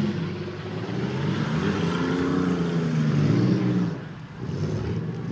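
Car engines revving as the cars race on a dirt track, their pitch rising and falling, with a brief lull about four seconds in.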